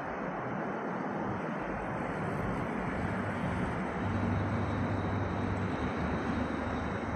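Steady rushing noise of a train approaching from far down the track, growing slightly louder, with a low hum coming in about four seconds in.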